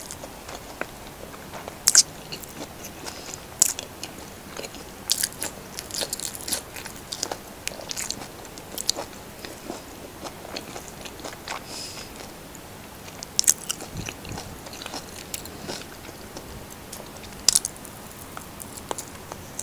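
A person chewing and biting food close to the microphone, with scattered sharp mouth clicks and bites, the loudest about two seconds in.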